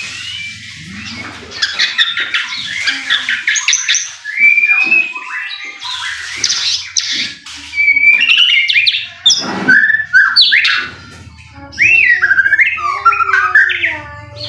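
White-rumped shama (murai batu) singing a fast, varied song of whistles, chirps and harsh notes, with short pauses about six and eleven seconds in.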